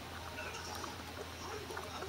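Faint chewing of a crispy fried beef croquette: soft, irregular little crunches and mouth sounds over a low steady hum.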